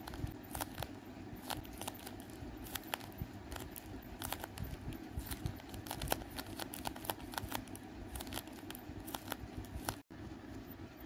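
A handmade paper squishy being squeezed and pressed between the fingers, crinkling with many small irregular crackles.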